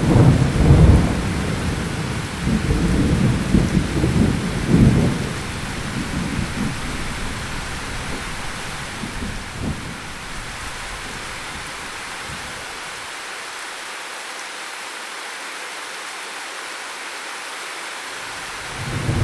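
Steady rain falling, with a long roll of deep thunder that dies away over the first ten seconds or so. Rain alone follows, until a new rumble of thunder starts near the end.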